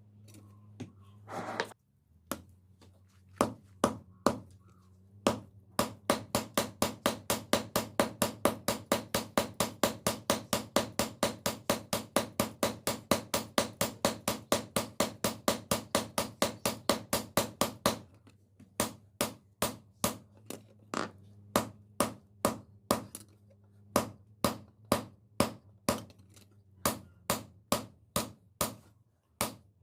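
Hammer striking steel during blacksmith forging. After a few scattered blows comes a fast, even run of about four strikes a second lasting roughly twelve seconds, then slower, irregular single strikes. A low steady hum runs underneath.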